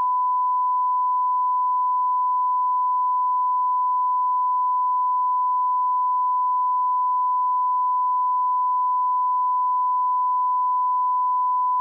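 Steady 1 kHz line-up reference tone at −18 dBFS: a single pure sine note held at constant level, used to align audio levels.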